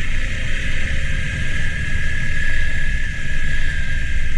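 Motorcycle engine running under load on a long dirt climb, with a steady whine and a rough low rumble.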